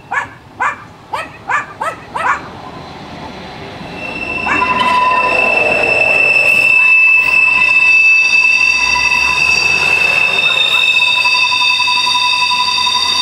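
A dog barks several times in the first two seconds. Then a Ferrovie della Calabria regional railcar rolls past, loud from about four and a half seconds in, its wheels squealing in high steady tones.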